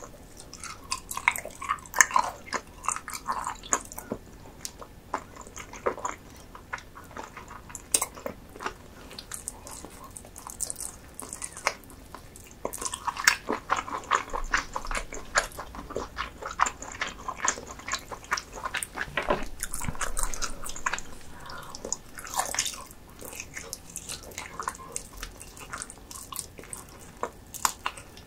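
Close-miked eating sounds: biting and chewing of food, with irregular sharp clicks and smacks.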